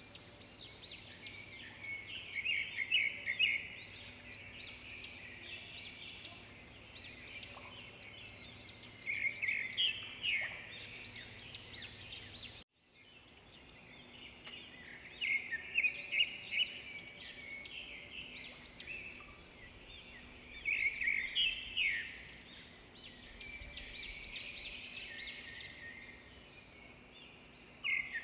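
Several songbirds chirping and singing together in quick, overlapping high calls and short trills, with louder bursts coming every few seconds. The sound drops out completely for a moment about halfway through, then resumes.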